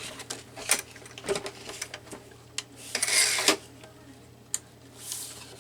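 Paper trimmer cutting a sheet of paper: several light clicks and knocks as the paper and trimmer are handled, then a half-second scratchy swish of the blade through the paper about three seconds in, and a shorter one near the end.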